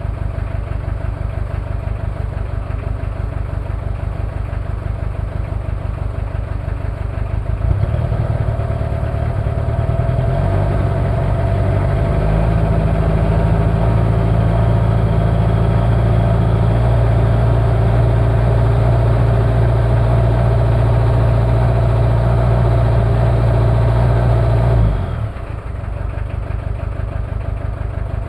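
Toyota 2L-T 2.4-litre four-cylinder turbo-diesel idling with a steady pulse, then speeding up in two steps about a quarter of the way in, holding a higher steady speed, and dropping back to idle a few seconds before the end. The engine has one bad injector and, as the owner suspects, possible cylinder head problems.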